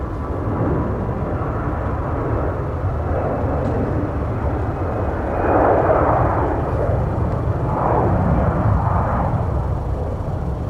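Airbus A320-200 jet engines at takeoff power during departure: a steady jet roar with a deep rumble, swelling about halfway through.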